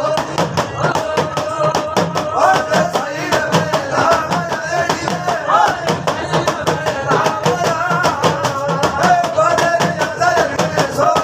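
Rajasthani folk devotional music: a wavering, ornamented melody line over a fast, steady beat of sharp percussion strokes.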